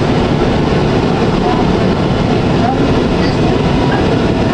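Tram running along its track: a steady rumble of wheels on rails, with a few faint short squeaks.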